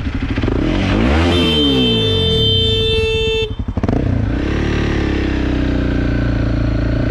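Motorcycle engine running as an oncoming vehicle passes close by, with a horn blaring steadily for about two seconds. After a brief dip, the motorcycle engine's pitch climbs as it accelerates.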